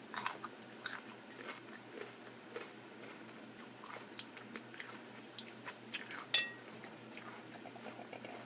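Close-up chewing and biting of salad: soft crunches and wet mouth clicks. About six seconds in comes a single sharper click that briefly rings.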